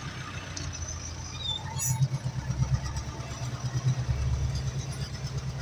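Ursus 385 tractor's four-cylinder diesel engine running steadily with a low, rapidly pulsing throb while ploughing.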